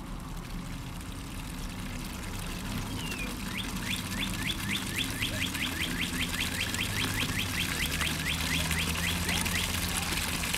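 A bird singing a long, rapid series of repeated down-slurred chirps, about five a second, starting about three seconds in and stopping shortly before the end, over steady outdoor background noise.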